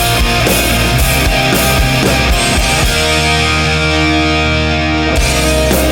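Pop-punk band playing an instrumental passage with electric guitars and drums. About halfway through, the drums drop out under a held guitar chord, and they come back in near the end.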